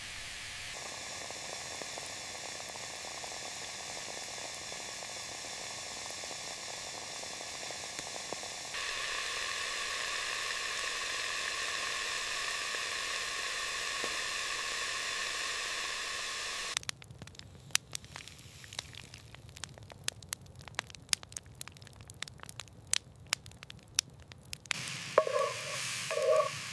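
Steady sizzling hiss for the first half, stepping louder partway through, like food frying over a campfire. Then campfire crackling, with scattered sharp pops. Near the end, a short run of pulsing tones begins.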